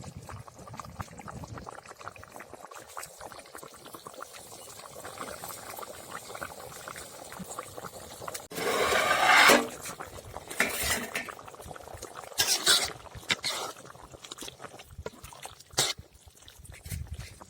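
Chicken gravy bubbling in a pot with water just added. A loud rushing, liquid sound lasts about a second halfway through, followed by a few shorter noises.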